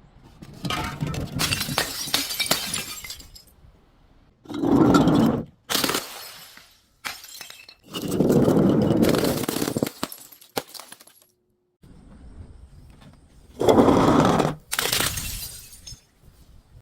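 Glass being smashed and crushed: a series of separate bursts of shattering and crunching, each one to two seconds long, with short quiet gaps between them.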